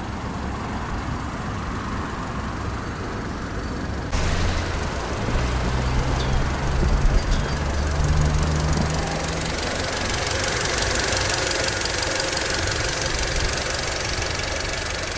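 Škoda Octavia's 1.6-litre MPI naturally aspirated inline-four (CWVA) idling steadily.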